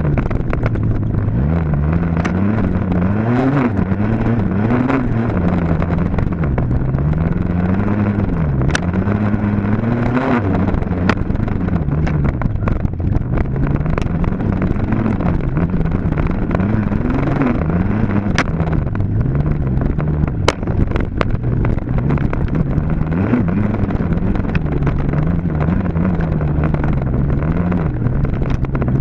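Dirt bike engine running hard, its pitch rising and falling every second or two as the throttle is worked on and off, with scattered sharp clicks over it.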